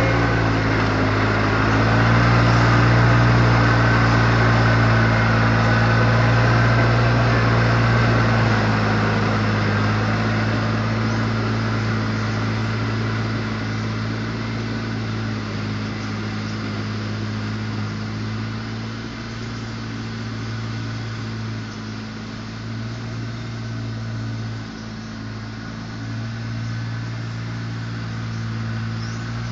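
Riding tractor mower's engine running steadily, louder for the first eight seconds or so and then somewhat quieter.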